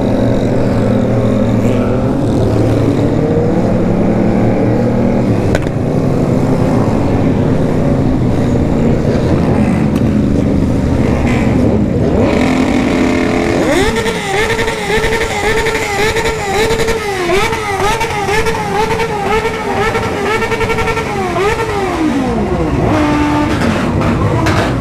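Several remapped sport motorcycle engines running together. About halfway through, one is revved sharply up and held at high revs, its pitch wavering up and down, then it drops back near the end.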